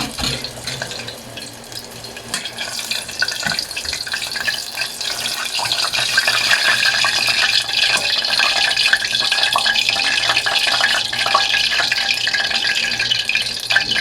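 Chicken pieces frying in hot oil in a pan: a steady crackling sizzle peppered with small pops, growing louder a few seconds in.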